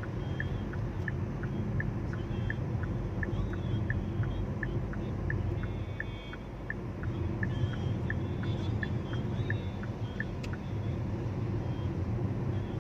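Steady low rumble of a motor vehicle, with a regular light ticking at about three ticks a second that stops a couple of seconds before the end.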